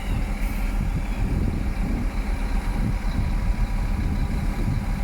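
Heavy diesel engine of earthmoving equipment running with a steady low rumble.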